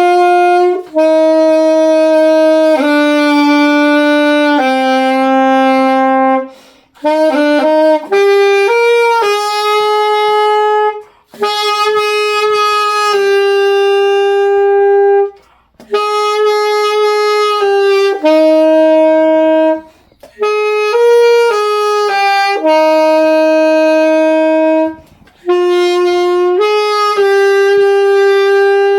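Saxophone playing a slow solo melody: long steady held notes, mostly one to two seconds each, with a quick run of short notes about eight seconds in and brief breath pauses between phrases.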